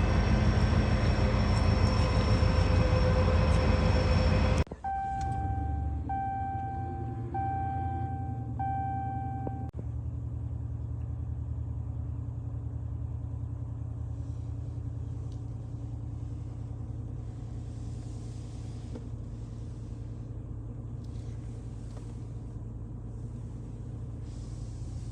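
Inside a Ram pickup, a loud sound with several steady tones cuts off suddenly about four and a half seconds in. Then a dashboard warning chime sounds four times, evenly spaced, over the truck's engine idling with a steady low rumble.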